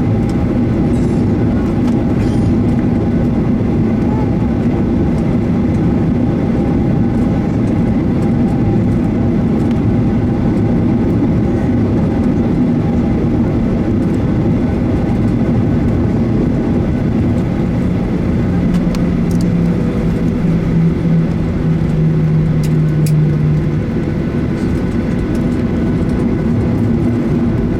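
Cabin noise of a Boeing 737-900ER on the ground: its CFM56-7B jet engines running steadily with a heavy rumble of the airframe and wheels as the airliner rolls towards takeoff. A low hum joins in past the middle for about five seconds.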